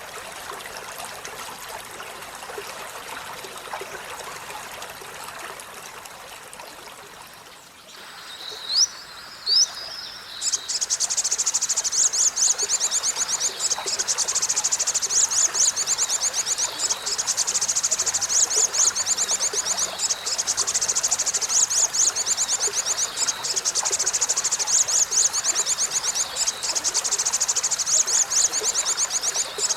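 Olive-backed sunbird singing: two quick rising whistles, then a long, very fast high-pitched trill of rapidly repeated notes. The first few seconds hold only a steady rushing noise with no song.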